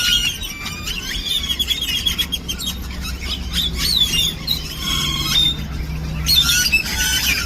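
A large flock of birds in one tree calling all at once: a loud, dense chorus of overlapping chirps, whistles and squeals, over a low steady hum.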